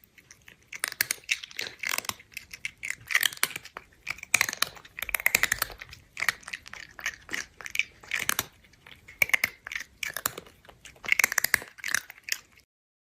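Close, crisp crunching like chewing, in short clusters of clicks coming about once a second.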